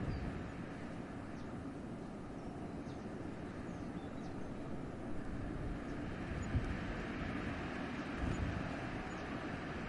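Wind blowing steadily through a winter forest, a continuous rushing with low gusts that surge a few times in the second half.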